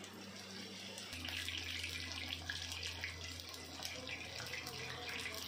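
Batter-coated mushroom pakoras sizzling and crackling as they deep-fry in hot oil in a pan. A low steady hum comes in about a second in.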